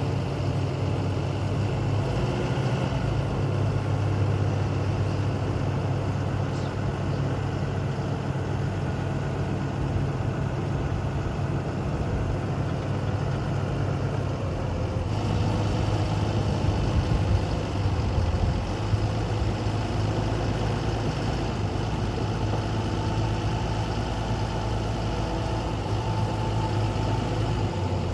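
Linde H140 14-ton diesel forklift engine idling steadily, with a shift in tone about halfway through.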